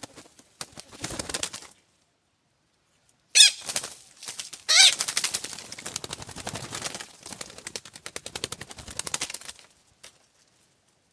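A bird gives two harsh squawks, about three and five seconds in. After the second squawk comes a long run of rapid wing flapping, about ten beats a second, which stops shortly before the end.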